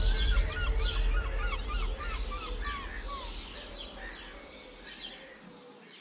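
Songbirds chirping and calling, with many quick whistled notes over a low rumble; the whole ambience fades out steadily.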